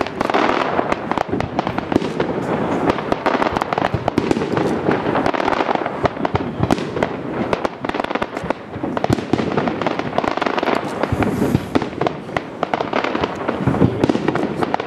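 Aerial firework shells bursting in quick succession: a dense, continuous run of bangs and crackling.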